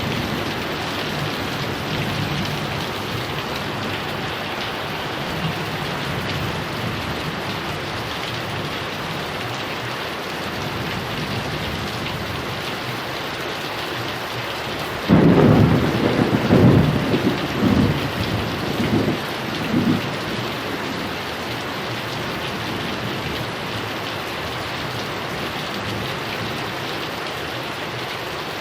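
Steady heavy rain, with a sudden clap of thunder about halfway through that rumbles on in several rolling surges for about five seconds before the rain alone carries on.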